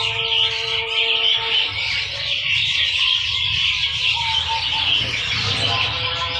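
Many caged songbirds chirping and twittering together in a dense, continuous chatter, with background music whose held notes fade out in the middle and return near the end.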